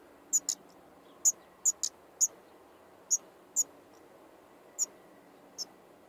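Common nightingale nestlings in the nest giving about ten short, high-pitched cheeps at irregular intervals, fewer and fainter toward the end.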